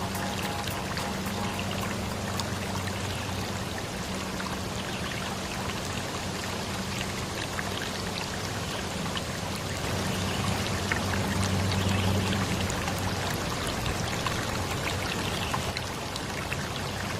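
Running water of a stream, a steady splashing rush with a faint low hum beneath it.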